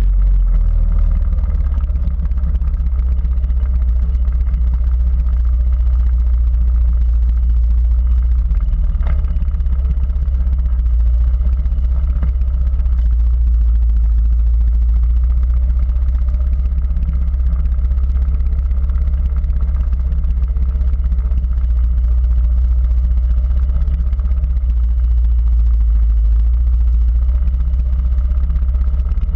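Quad bike engine running steadily with a low rumble, holding an even pace without clear revving.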